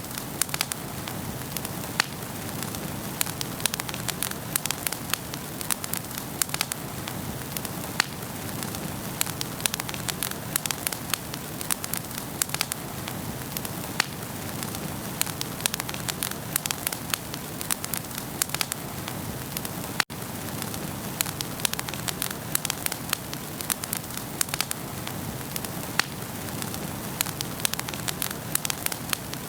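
Wood fire burning in a fireplace: a steady hiss with frequent sharp crackles and pops from the burning wood, broken by a momentary dropout about twenty seconds in.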